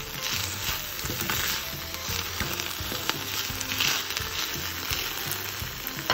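Purslane sizzling as it sautés in olive oil in a stainless steel pan, stirred and turned with a wooden spatula that scrapes and knocks against the pan now and then.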